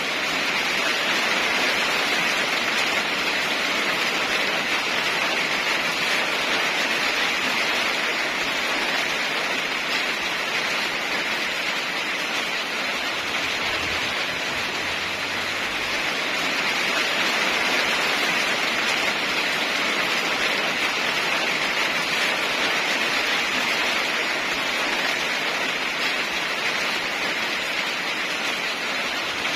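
Heavy rain falling steadily, an even hiss that swells and eases slowly in loudness.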